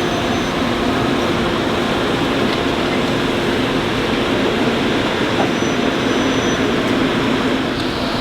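Diesel locomotive idling: a steady engine drone with an even hum.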